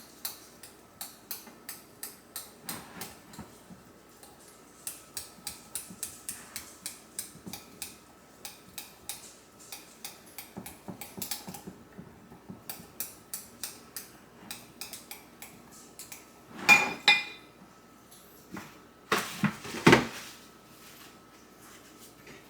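Kitchenware being handled: a long run of light clicks and clinks, a few a second, then two louder clattering knocks near the end.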